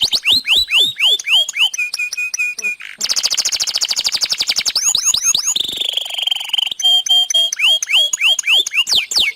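Canary singing a long, unbroken song: rapid runs of downward-sliding whistled notes, a fast high trill about three seconds in, a held wavering note around the middle, then short repeated notes and more falling notes near the end.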